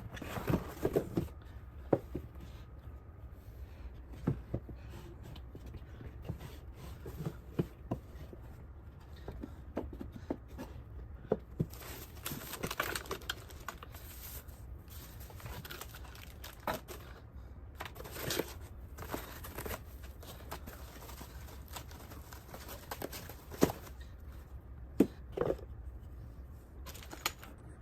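Packaging being opened and handled: crinkling and tearing of wrapping, with scattered sharp clicks and knocks as the birdhouse and its parts are taken out.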